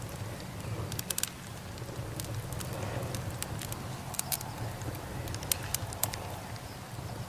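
Burning wood crackling: irregular sharp pops and snaps, a few of them louder, over a steady low rumble.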